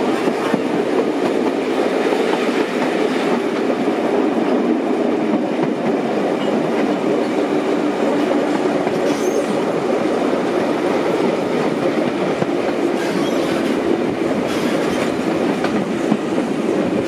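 Steam-hauled passenger train running steadily along the track, heard from a carriage: continuous running noise of the wheels on the rails.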